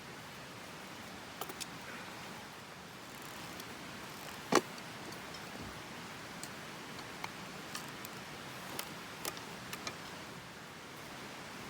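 Wood campfire crackling: scattered sharp pops and ticks over a steady hiss, with one loud pop about four and a half seconds in.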